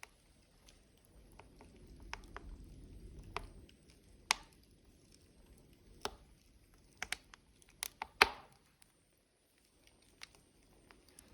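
Logs burning in a wood stove, crackling with scattered sharp pops, the loudest about eight seconds in. A soft low rush of the fire runs between about one and four seconds in.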